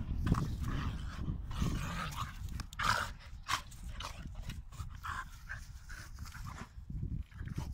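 Dogs play-fighting, with several short cries from the dogs around the middle over a continuous low rumble.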